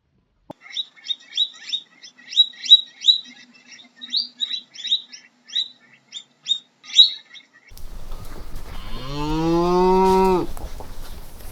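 A quick run of short, high, repeated chirps from a bird for about seven seconds, then a cow moos: one long, low call that begins about eight seconds in.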